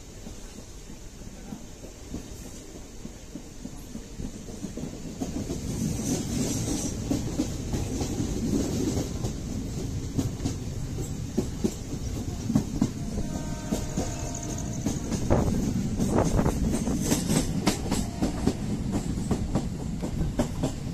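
MEMU electric commuter train running at speed, heard from inside the coach: a steady low rumble that builds over the first few seconds, with the wheels clicking over rail joints, the clicks thickest in the second half.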